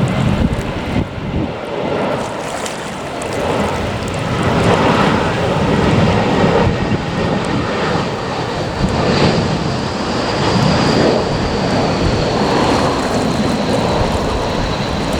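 Jet airliner engines heard at a distance: a steady rumble with a faint high whine that comes in about halfway through and falls slightly in pitch, over wind and surf.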